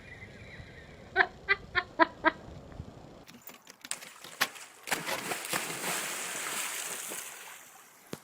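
An animal gives five short, quick calls, a quarter-second apart. Then, after a cut, there is a steady rushing hiss with scattered clicks.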